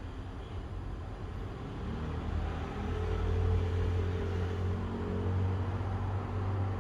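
A motor vehicle's engine running with a low rumble, growing louder about two seconds in.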